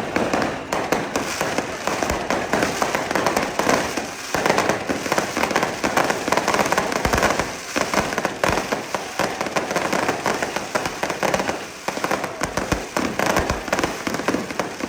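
A long string of firecrackers going off, a dense and continuous rapid crackle of small bangs.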